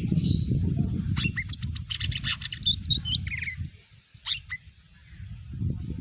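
A cucak ijo mini (green leafbird) singing a quick run of sharp, high chirps and whistled notes, with a couple more notes a second later. A low rumble sits under the first half and fades out partway through.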